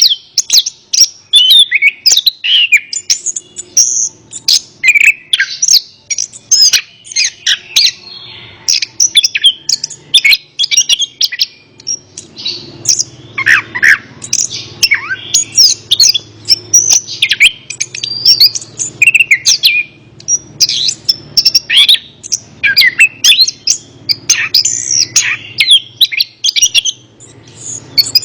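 Orange-headed thrush (anis kembang) singing a fast, varied, unbroken run of chirps, whistles and slurred notes. A faint low hum sits underneath from about halfway.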